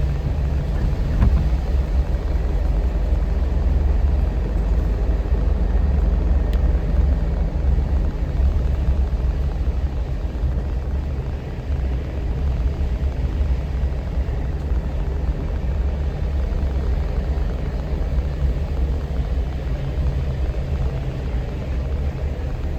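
Off-road vehicle driving along a paved road, heard from inside: a steady low rumble of engine and tyre noise.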